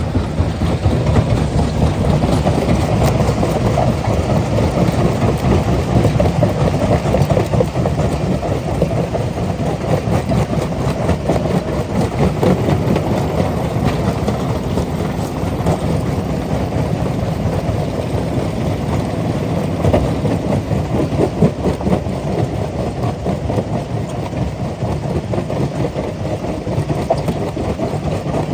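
Rock crusher running under load, a steady heavy rumble with a constant clatter of stone being broken and rattled through the machine.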